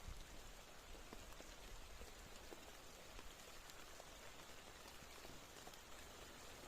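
Faint, steady rain falling, with single drops ticking here and there.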